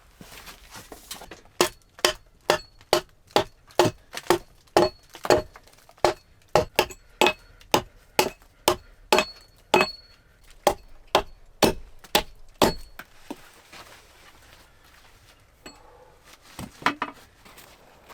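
A steady run of sharp knocks, about two a second for some eleven seconds, each with a faint metallic ring, then they stop; a few softer knocks come near the end.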